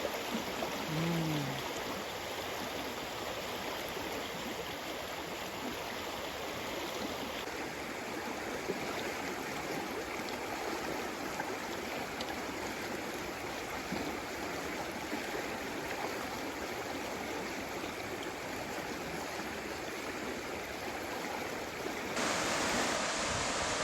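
Stream water running steadily, with a brief low falling tone about a second in. The water sound shifts abruptly twice and is louder near the end.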